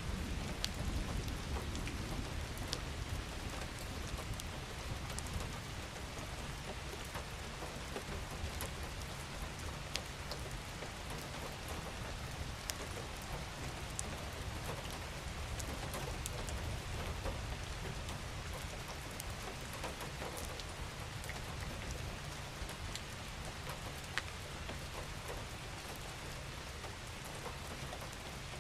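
Steady rain falling on a surface, with individual drops ticking sharply now and then over a low rumble.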